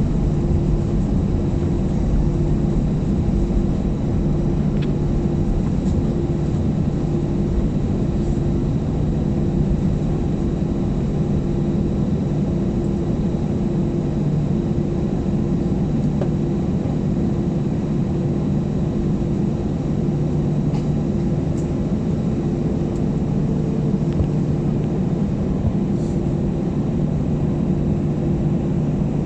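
Steady drone inside an airliner's cabin after landing: the engines and air systems running with an even low hum, no change in pitch.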